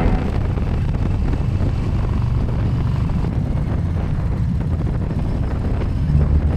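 Motorcycle engine running steadily at speed, with a deep rumble under rushing wind noise on the microphone.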